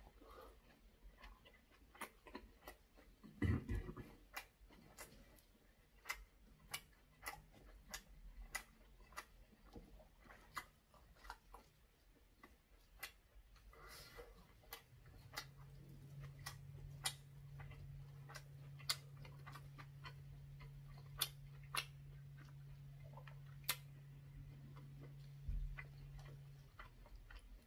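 Close-miked eating sounds: a string of sharp, irregular wet mouth clicks and smacks from chewing braised saury, kimchi and rice, with a louder knock about three and a half seconds in. A low steady hum comes in about halfway and stops shortly before the end.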